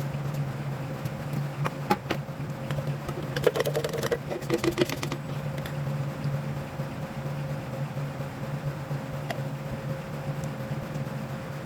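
A steady low machine hum, with a few sharp clicks about two seconds in and a quick run of clicking and clatter from about three and a half to five seconds in.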